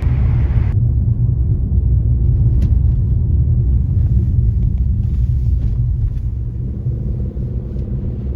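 Steady low rumble of a car on the move, heard from inside: road and engine noise.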